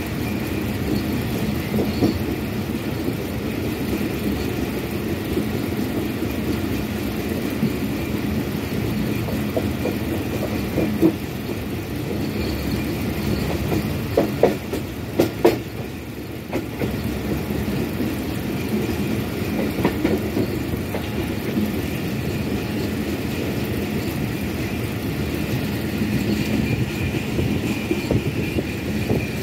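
Passenger train running along the track: a steady noise of wheels on the rails, with a few sharp knocks about halfway through.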